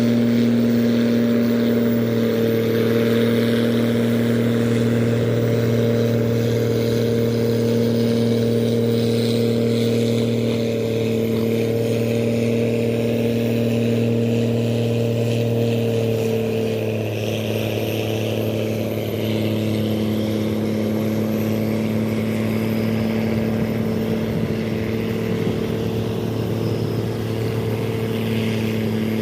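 Tugboat engine running steadily with a deep, even drone, dropping slightly in pitch and level about halfway through.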